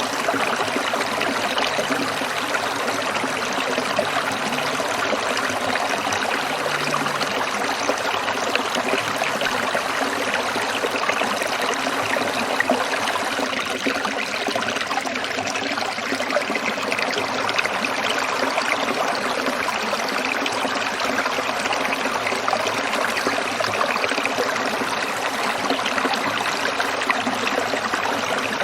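Shallow stream of water trickling and burbling over stones, a steady, even rush of fine splashing and gurgling.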